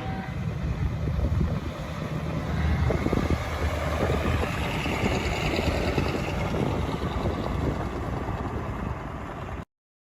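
Heavy low engine rumble of a truck, with a whistle that rises and then falls away in the middle. The sound cuts off suddenly near the end.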